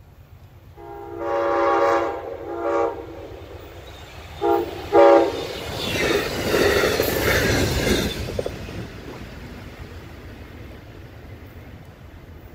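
Amtrak passenger train sounding its horn, one long blast followed by three short ones, then rushing past at speed: the rumble and clatter of the passing cars peaks about seven seconds in and fades as the train moves away.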